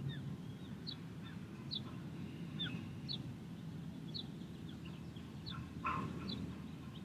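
Birds calling: short, high chirps repeating about once a second, with one lower, louder call about six seconds in, over a steady low outdoor rumble.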